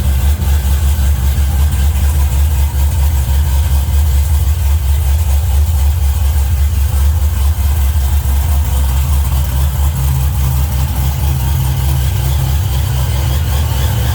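Chevrolet Impala's engine idling steadily shortly after a cold start, a deep pulsing rumble from the exhaust. About eleven seconds in the rumble shifts a little higher in pitch.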